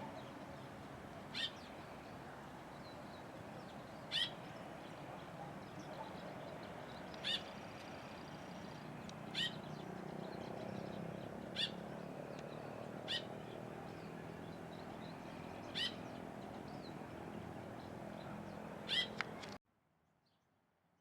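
A bird calling over and over with short, sharp, high notes that drop quickly in pitch, about one every two to three seconds, over a steady low background hum. The sound cuts off abruptly near the end.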